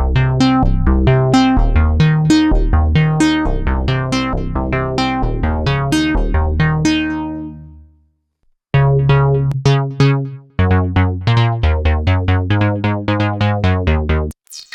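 Polymax software synthesizer presets playing short plucky notes in sequenced patterns over a low bass line. The first pattern runs at about three notes a second and fades out about eight seconds in. After a short silence a second preset comes in, first with a few stabs and then a faster run of repeated notes.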